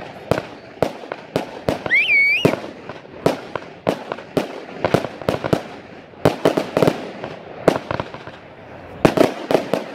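Fireworks display: sharp bangs of aerial shells bursting, irregular and at times several a second, with a brief high wavering whistle about two seconds in.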